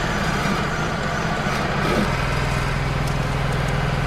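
Wood-Mizer LT35 hydraulic portable sawmill's engine running steadily, its pitch dropping slightly about two seconds in.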